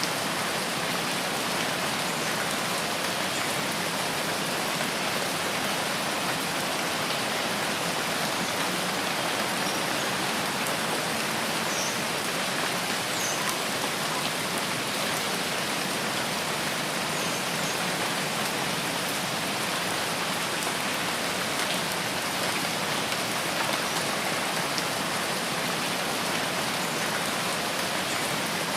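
Steady rain falling on foliage, an even patter without letting up.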